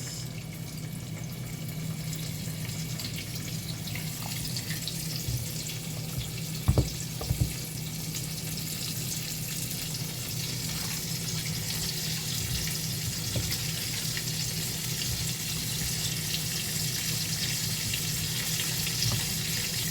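Battered chicken pieces deep-frying in hot oil in a pot, a steady sizzle that grows a little stronger in the second half. Two short knocks about seven seconds in.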